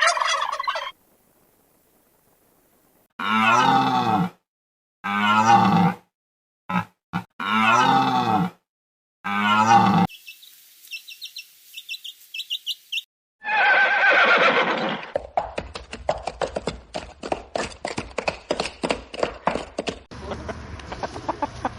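Farm poultry calling: a run of about six loud, wavering calls, each lasting about a second, then thin high cheeps, one long loud call, and a rapid run of sharp ticks to the end.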